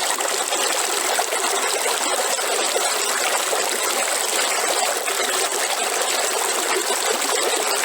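Waterfall: a steady, unbroken rush of falling water, hissy with little low rumble.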